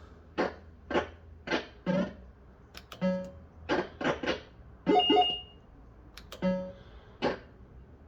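Bell-Fruit Wild Cats fruit machine playing its electronic sound effects: a run of short bleeping tones, about two a second, with a longer, brighter burst about five seconds in. A steady low mains hum lies underneath.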